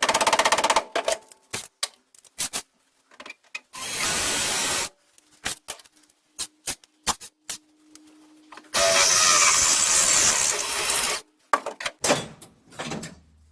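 Power drill with a spot weld cutter bit cutting out a spot weld in a car's sheet steel seat pan. It runs in short bursts, with a longer cut near the end, and sharp metal clicks and knocks fall between the bursts.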